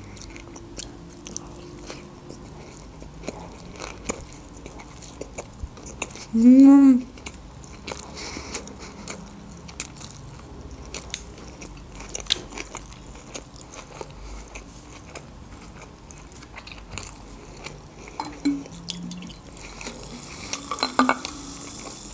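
Close-miked chewing and small wet mouth clicks from eating a sushi roll, with a short hummed "mm" about six and a half seconds in. Near the end, Sprite is poured from a plastic bottle into a glass and fizzes.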